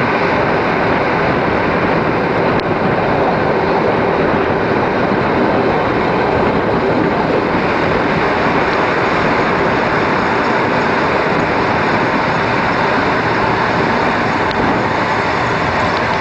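ALn 668 diesel railcar running along the line, heard from an open window: a loud, steady mix of engine and wheel noise with air rushing past.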